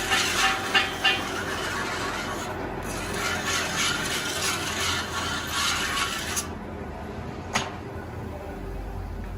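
Busy mechanical clicking and metallic clatter that dies away about six seconds in, leaving a low hum with one sharp click near the end.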